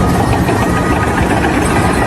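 An engine running steadily, loud and unbroken, with a faint high whine above it.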